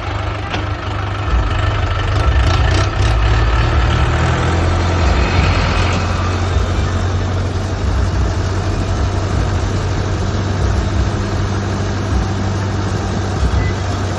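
Diesel tractor engines running with a steady low rumble.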